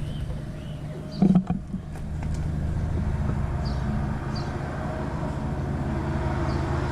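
Road traffic on a busy street, a steady low rumble that swells as heavy vehicles pass. There is one brief thump about a second in.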